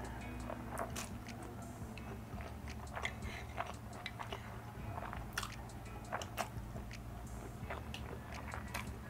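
Close-miked eating of spicy instant noodles: chewing with many short, sharp, wet mouth clicks, over a steady low hum.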